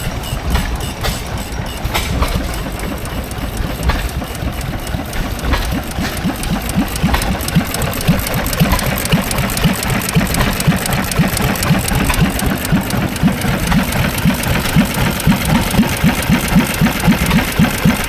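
Antique engine running slowly at idle with a distinct, even beat of about three to four firing strokes a second. The beat grows louder and clearer partway through.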